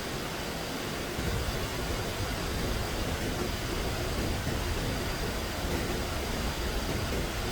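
Steady rushing water noise with a low rumble underneath, even throughout with no distinct events.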